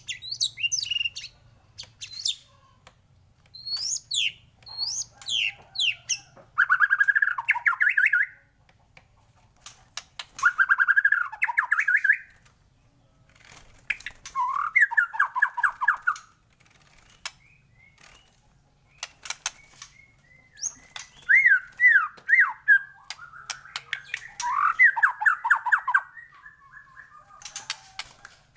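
White-rumped shama (murai batu) calling: clear, high, falling whistles in the first few seconds, then bursts of harsh rattling chatter, each one to two seconds long, repeated every few seconds with short pauses between.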